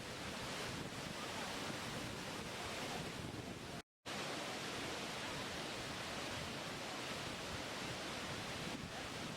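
Waterfall: a steady rush of falling water, cut off for a split second about four seconds in before resuming.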